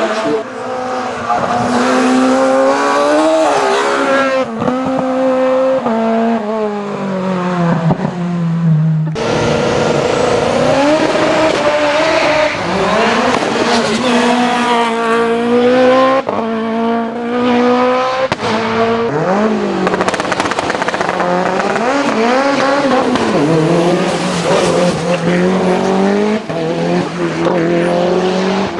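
Hill-climb race car engines revving hard and running up through the gears, the pitch climbing and then dropping again and again. The sound changes abruptly twice, about a third and about halfway through.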